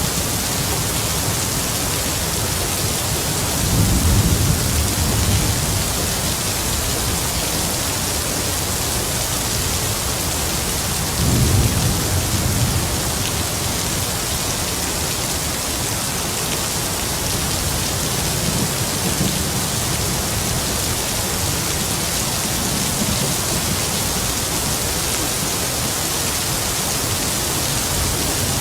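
Heavy rain falling in a steady hiss, with distant thunder rumbling low twice, about four and eleven seconds in, and more faintly later on.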